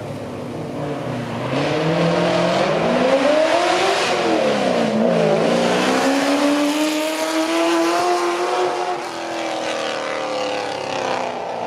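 Race car engine accelerating hard, its pitch climbing, dipping sharply about four and a half seconds in, then climbing again before falling away near the end.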